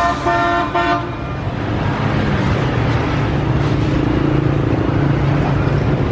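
A vehicle horn honks three short times in the first second, followed by steady engine and traffic noise.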